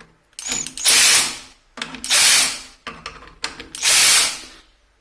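Cordless drill-driver tightening the screws of a copper-pipe repair clamp in three short bursts. Each burst ends in the clutch ratcheting as it slips at its torque setting of 6, a sign that the screw has reached the set tightness.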